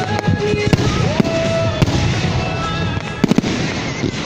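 Aerial firework shells bursting in quick succession: a dense run of sharp bangs and crackles, loudest a little over three seconds in.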